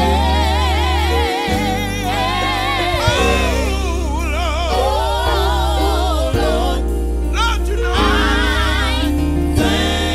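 Gospel group singing with vibrato over a band with a heavy bass line.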